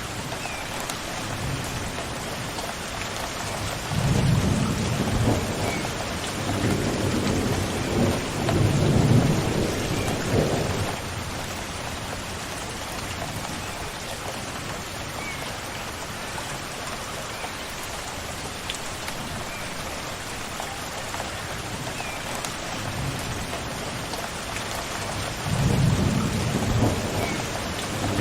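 Steady rain falling, with thunder rumbling low from about four seconds in until about eleven seconds, and again near the end. A few faint short bird chirps sound over the rain.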